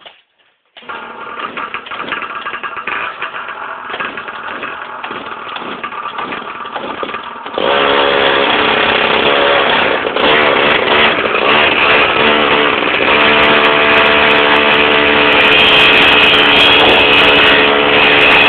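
Small mini bike engines running under throttle, starting about a second in; about seven and a half seconds in the sound jumps much louder, the pitch wavering as the engines rev, then holding steady at high revs.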